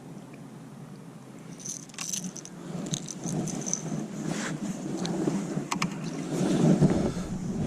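Light metallic jingling and clicking, with a low rushing noise underneath that grows louder toward the end.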